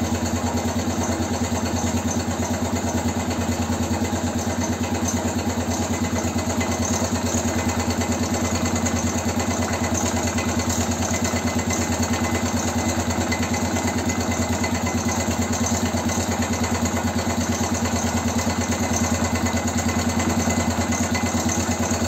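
BM Motard motorcycle engine idling steadily after a rebuild, with a knock in it that the owners are trying to locate and do not like the sound of.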